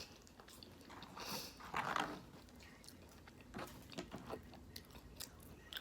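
Close-miked chewing of a mouthful of mashed potatoes, gravy, corn and popcorn chicken, with soft wet mouth clicks scattered through it.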